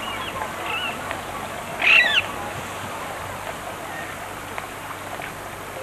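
Birds calling over a steady outdoor hiss: a few short high chirps, then one louder call about two seconds in that falls in pitch.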